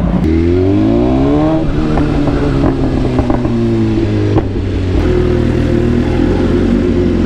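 BMW S1000RR inline-four motorcycle engine pulling away, its pitch rising over the first second and a half, then running steadily at low speed with a brief break about four and a half seconds in, like a gear change.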